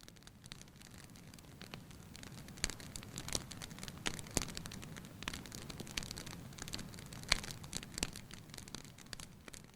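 Easter bonfire crackling and popping, with irregular sharp pops over a steady low rush of burning.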